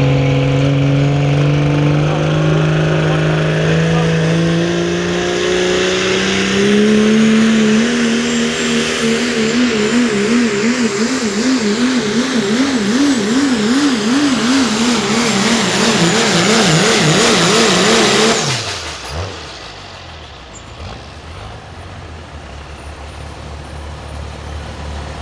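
Competition diesel pickup truck pulling a sled at full throttle: the engine's pitch climbs steadily for the first several seconds, then wavers rapidly up and down as the run goes on, with a high whine above it. About 18 seconds in the engine note drops off suddenly as the throttle is cut, leaving a much quieter low running sound.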